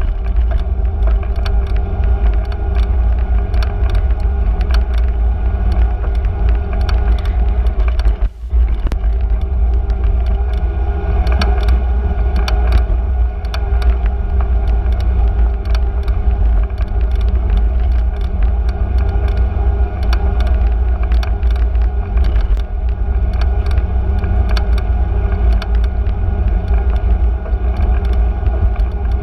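Street sound heard from a moving bicycle: a heavy low rumble of wind and road on the microphone, with frequent small rattling clicks. The sound drops out briefly about eight seconds in.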